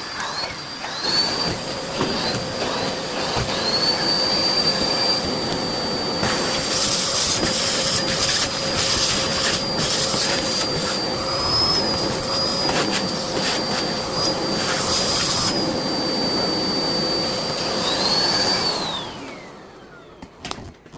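Miele Blizzard CX1 canister vacuum cleaner running with a high motor whine that dips and recovers several times in the first few seconds, with bursts of louder noise in the middle. Near the end it is switched off and the whine falls away as the motor runs down.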